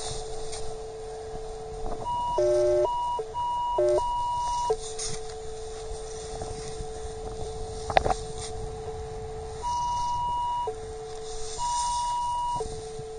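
Metal detector sweeping the beach: a steady threshold hum with target beeps at higher pitches cutting in and out several times, and two warbling low-high signals about two and four seconds in. A single sharp click about eight seconds in.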